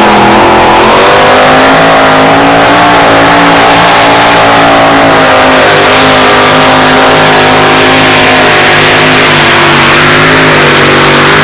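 Two-wheel-drive pulling truck's engine held at full throttle during a pull, very loud and steady, its pitch wavering slightly as it works against the sled.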